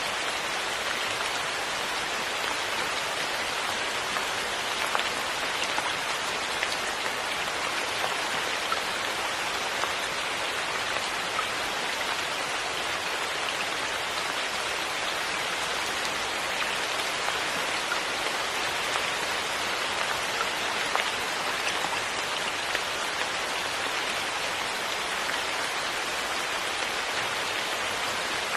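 Steady rain, an even hiss with scattered sharper drop ticks standing out now and then.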